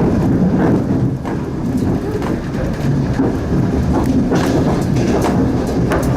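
Passenger train running, heard from a carriage window: a steady low rumble of wheels on the rails with scattered sharp clicks and knocks.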